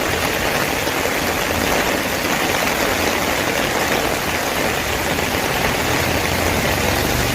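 Steady rush of heavy rain and water on a waterlogged street, with a vehicle engine running low underneath.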